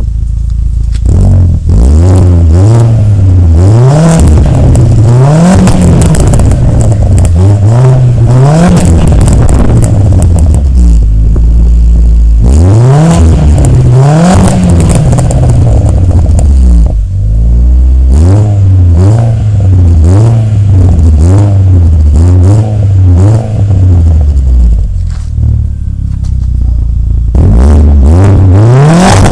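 Car engine revved through its exhaust in quick repeated blips, the revs climbing and dropping again and again, with short spells of steady idle in between. Loud throughout.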